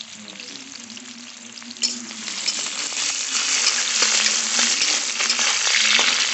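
Onion, green chilli and ginger frying in hot oil with cumin and mustard seeds in a steel kadhai: a steady sizzle with fine crackles. About two seconds in there is a sharp knock, and the sizzle then grows much louder.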